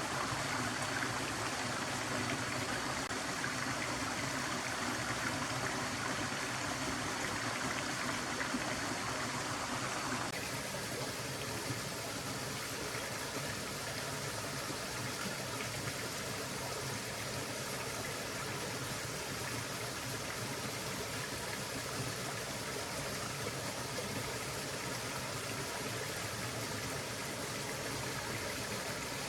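Stream water flowing steadily. About ten seconds in, the sound changes abruptly to a softer, duller rush.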